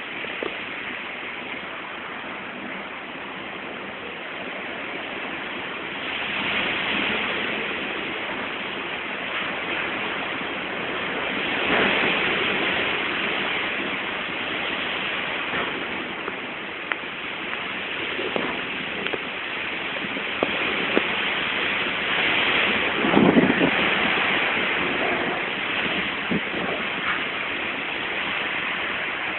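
Heavy rain pouring down in a thunderstorm, a steady rush that swells and eases in waves, with a few short knocks, loudest about 23 seconds in.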